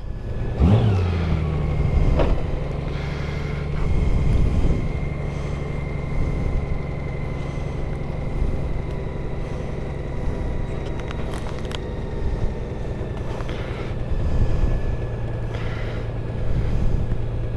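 Motorcycle engine running steadily, with a brief rise and fall in pitch about a second in.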